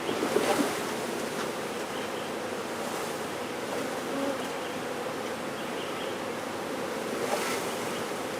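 A swarm of honey bees buzzing: a steady, dense hum over a hiss. It swells briefly just after the start and again near the end.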